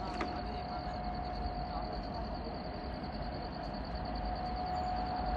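Awadh Assam Express passenger train running on the track, a steady rumble that grows a little louder toward the end. A steady high-pitched pulsing trill and a faint steady tone sit over it.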